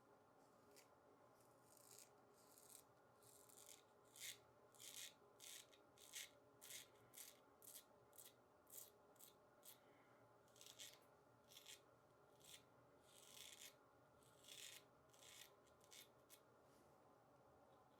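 Weck Sextoblade straight razor with a sharp new Kismet blade cutting through lathered stubble: a long run of short, faint, crisp scraping strokes, often about two a second.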